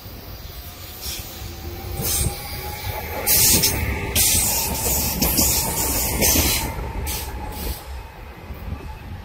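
Electric passenger train rolling past close by, its wheels squealing on the rails under a low rumble. The squeal and hiss are loudest from about three to seven seconds in.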